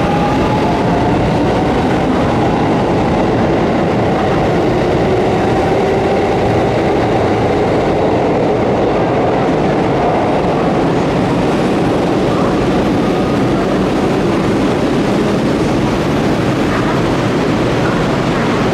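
Electric commuter train moving alongside the platform, a steady loud rumble of wheels on rail with a motor whine that glides in pitch.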